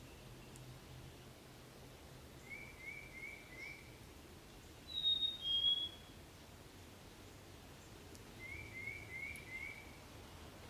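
Songbirds singing: a clear two-note whistle, the second note lower, about halfway through, and twice a quick run of four short notes, over faint steady background noise.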